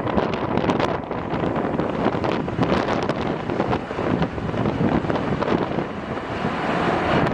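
Gusty wind buffeting the camera microphone, a loud uneven rumble and flutter.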